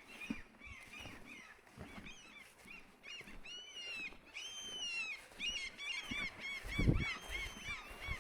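Birds calling: many short, high, rising-and-falling calls, sparse at first and then coming thick and fast from about three seconds in, with a couple of longer held calls. A low thump near the end.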